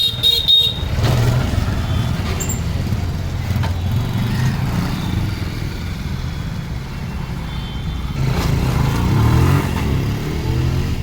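Bajaj CT 100's small single-cylinder engine running steadily, revved up briefly about eight seconds in.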